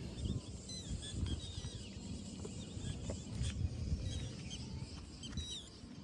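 Small birds chirping repeatedly in short, quickly rising and falling calls, over a low rumbling noise.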